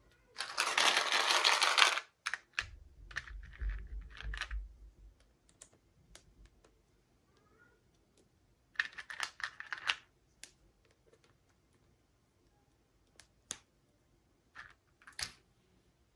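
Toy packaging being handled: two bursts of plastic rustling and crinkling, the first and loudest about half a second in, the other near ten seconds, with scattered small clicks and taps between and after.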